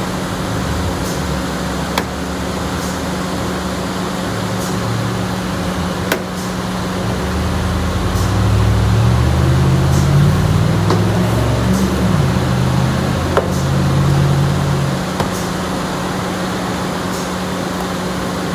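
Self-service car wash machinery running: a steady hum under a constant hiss. A lower drone swells and rises in pitch through the middle, then drops away, and a few sharp clicks stand out.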